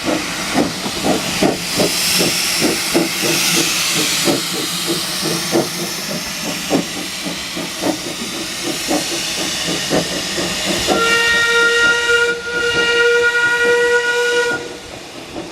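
Steam locomotive working, its exhaust beats coming about two to three a second over a steady hiss of steam. About eleven seconds in, its steam whistle sounds for nearly four seconds with one brief break.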